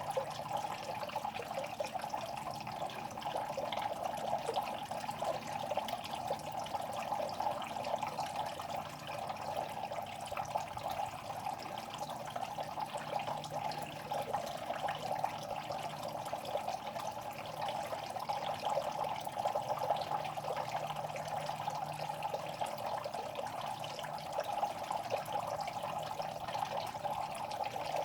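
Water in a fish pond trickling and splashing without a break, with a faint low hum underneath; the sound is taken to be the fish making noise.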